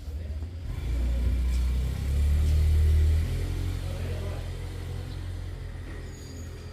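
A motor vehicle's engine rumbling close by. It grows louder over the first three seconds, then eases off to a steady lower running sound.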